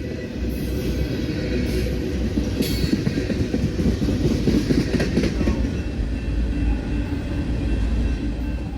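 CSX freight train, intermodal well cars, rolling past: a steady rumble with many irregular knocks and clicks from the wheels on the rails.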